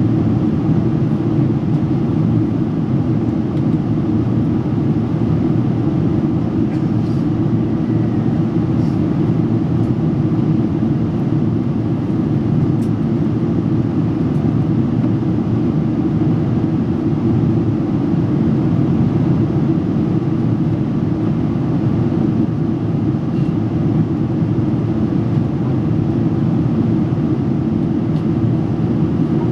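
Steady cabin rumble of a Boeing 777-300 airliner in flight, airflow and engine noise heard from a passenger seat, during the descent toward landing.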